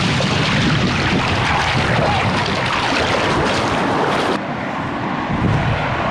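Ocean surf and wind buffeting the microphone, a loud steady rush. About four seconds in it cuts abruptly to a quieter, duller rush.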